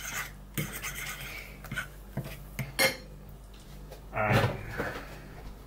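A spoon clinking and scraping against a bowl of thick microwaved oats, in a few separate taps. A short voice-like sound comes about four seconds in, over a steady low hum.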